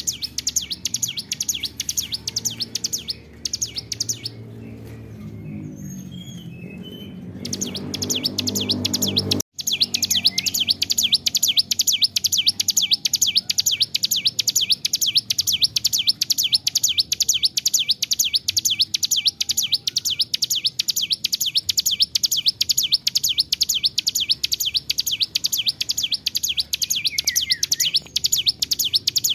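Hill prinia (ciblek gunung) singing a long, unbroken song of very rapid, repeated high chips. The song breaks off about three seconds in, while a low drone is heard, and resumes after a brief dropout near ten seconds.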